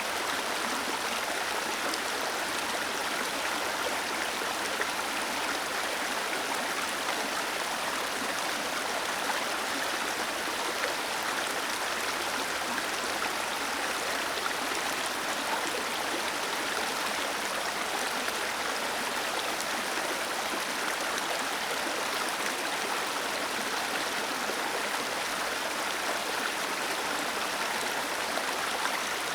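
Small waterfall splashing and rushing over stones, a steady, even sound with no changes.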